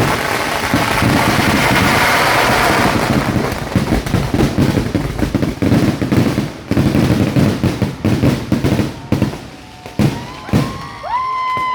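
Fireworks going off in a dense barrage: a continuous rapid crackle of bursting firecrackers for the first few seconds, then separate sharp bangs that thin out and space apart. A short steady whistle-like tone sounds near the end.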